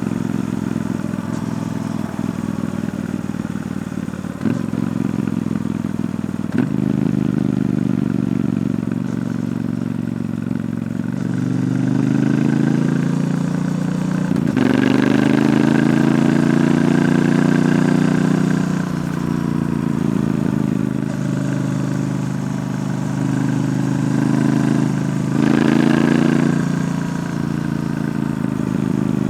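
Triumph Bonneville T120's parallel-twin engine through its stock exhaust while riding: steady low-rev running broken by several rising pulls as the bike accelerates, each dropping back in pitch at a gear change or roll-off, the loudest just past the middle.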